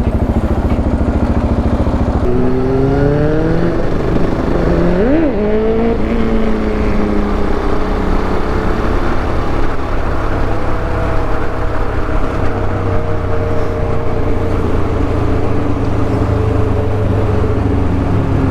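KTM 690 Duke R's single-cylinder engine heard from the saddle as the bike pulls away. The revs climb through a couple of gears, blip up and down sharply about five seconds in, then settle to a steady cruise over a constant low rumble.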